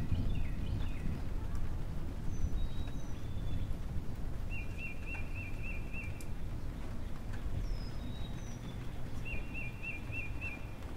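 Small birds chirping over a steady low rumble of background noise. One bird gives a quick run of repeated rising notes twice, about four and a half and nine seconds in, with short high whistles between.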